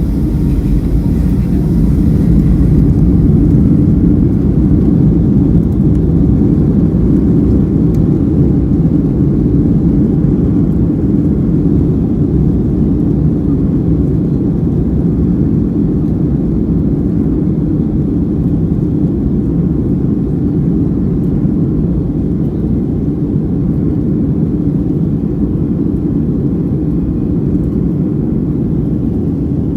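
Boeing 757-200 engines and airflow heard from inside the cabin during takeoff: a loud, steady, low rumble that swells slightly about two seconds in and then holds.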